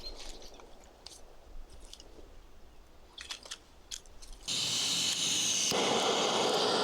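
A few faint small clicks, then about four and a half seconds in a portable gas camping stove starts hissing as the gas is opened, and a second later it lights into a louder steady rushing burner flame.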